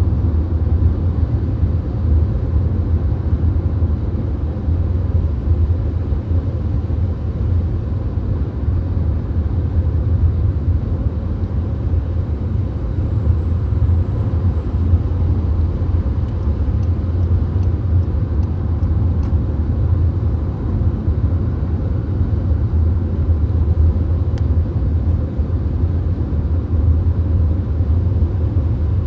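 A VW Golf driving at highway speed: a steady low rumble of road and engine noise with a hiss of tyres and wind above it, and a few faint ticks now and then.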